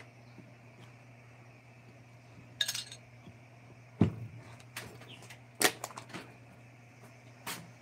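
Scattered sharp knocks and clicks, a few at a time, the loudest about four seconds in, over a steady low hum.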